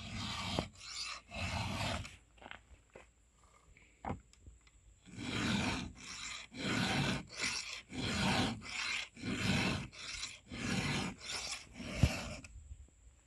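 Hand file rasping across the cutter teeth of a chainsaw chain during sharpening: two strokes, a pause, then a run of about seven even strokes about a second apart, with a single sharp knock near the end.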